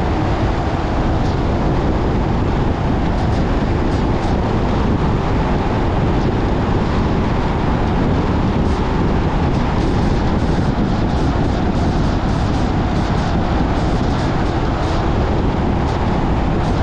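Steady road noise of a car driving: tyre rumble and engine running at an even speed, with faint light ticks over it.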